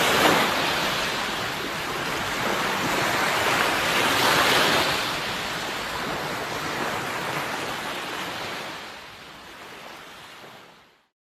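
Sea waves breaking and washing in, surging twice, then dying away. The sound cuts off abruptly to silence near the end.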